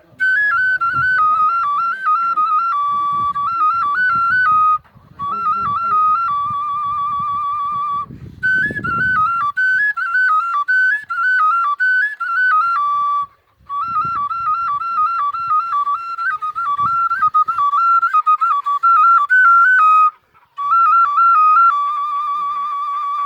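Kaval, the end-blown wooden shepherd's flute, playing a quick, ornamented folk melody in about five phrases with short pauses between them. Some notes are held with a fast trill, one of them near the end.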